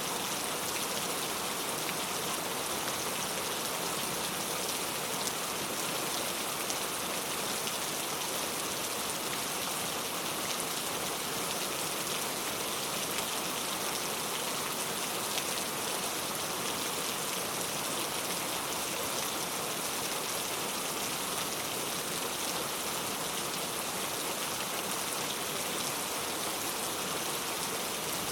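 Heavy rain falling steadily: a dense, even hiss of countless drops, unchanging throughout.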